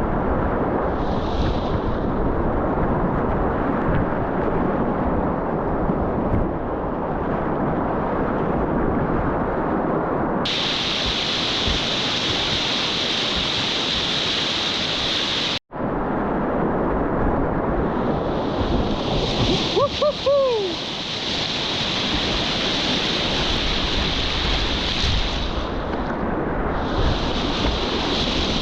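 Rushing whitewater rapids heard close up from a kayak, a steady loud roar of water with spray and wind buffeting the action camera's microphone. The sound cuts out for an instant about halfway, and a few short falling tones come briefly later on.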